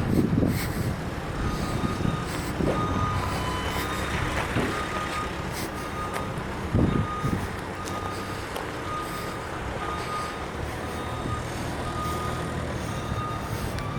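Vehicle backup alarm beeping steadily, about once a second, over the low running of a truck engine, with wind gusting on the microphone now and then.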